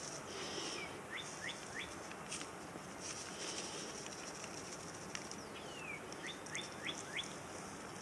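Birds calling in the background: a run of four short rising chirps about a second in, a falling whistle a little past the middle, then another run of four rising chirps, over a faint high hiss that comes and goes.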